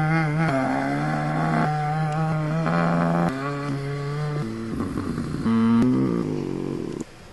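A person imitating a truck engine with their voice: a steady buzzing hum held in several long stretches, stepping up and down in pitch, stopping about seven seconds in.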